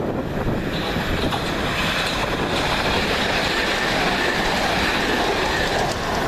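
Electric passenger train running through a station, its wheels clattering on the rails. A higher-pitched squeal or whine comes in just under a second in and holds.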